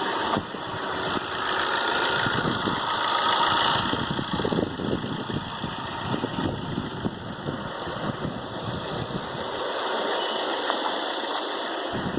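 A Chevrolet Enjoy's engine idling steadily, with a hiss of noise over the rumble; it grows a little louder over the first few seconds.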